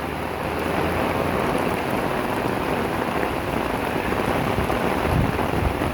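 Heavy monsoon rain pouring down in a steady, dense hiss, with a few low knocks near the end.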